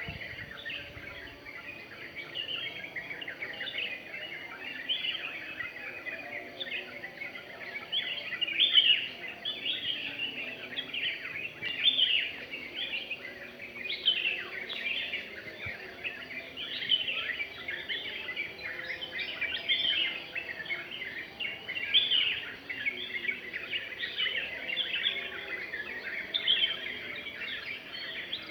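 Dawn chorus of many small birds chirping and trilling at once, a dense, continuous overlap of short high calls.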